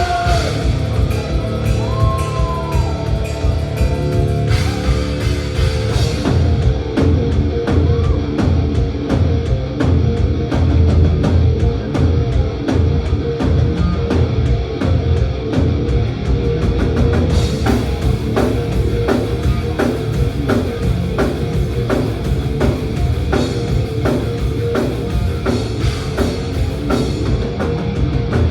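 Live thrash metal band playing loudly: distorted electric guitars, bass and drums. Held, bending guitar notes open it, and fast, steady drumming comes in about six seconds in.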